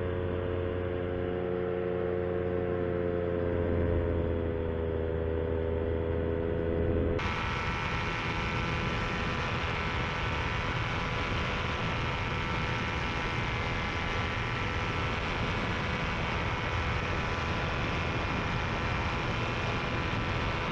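Paramotor engine and propeller running steadily in flight, the pitch easing slightly down for a moment; about seven seconds in the sound changes abruptly to a brighter, higher-pitched drone.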